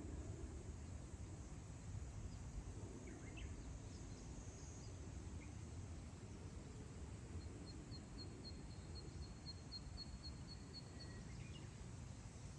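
Wind over grassland, a low steady rush, with a few faint bird chirps. Past the middle, a bird gives a fast trill of short high notes, about five a second, lasting some three seconds.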